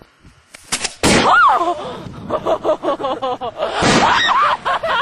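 Aerial firework shells going off, with one loud bang about a second in and another about four seconds in. People's voices call out between and after the bangs.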